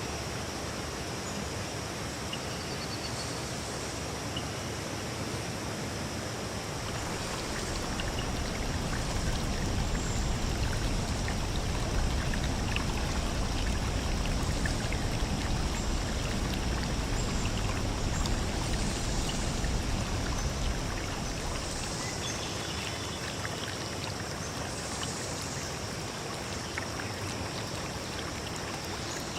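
Clear forest stream running and trickling over rocks, a steady rush of water. A low rumble swells in for a stretch in the middle and fades again, over a thin steady high-pitched tone.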